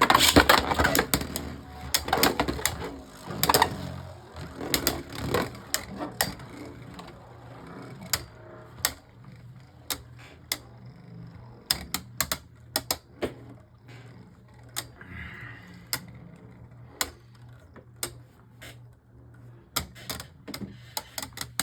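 Two Beyblade Burst spinning tops whirring and clashing in a plastic stadium. For the first six seconds or so there are dense, rattling collisions, then sparser sharp clacks as they keep spinning.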